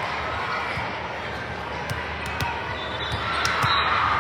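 Sports-hall ambience of a volleyball tournament: a steady murmur of voices with irregular thuds and sharp smacks of volleyballs being hit and bouncing on the hard floor, several in a few seconds.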